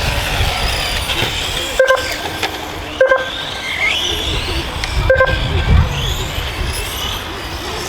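Radio-controlled racing cars' motors whining as they speed up and slow down around the track, with a low rumble of voices underneath. Three short beeps sound about two, three and five seconds in.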